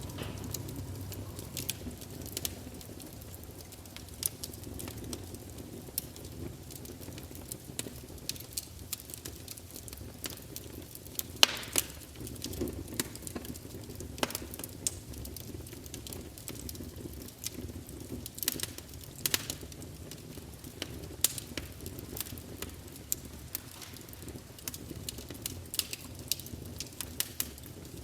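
Campfire burning: a low steady rumble of flames with irregular sharp crackles and pops of burning wood, a few louder snaps among them.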